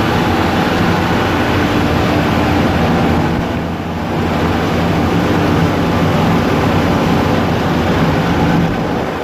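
Loud, steady drone of a ship's engine room, with diesel machinery running and a constant hum of low tones under a dense mechanical roar. The level dips briefly about four seconds in.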